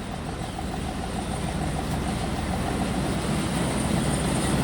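Diesel pulling truck's engine running under load, growing steadily louder.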